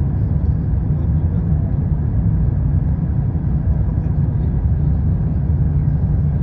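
Steady, loud low rumble of cabin noise inside an Airbus A350-1000 airliner.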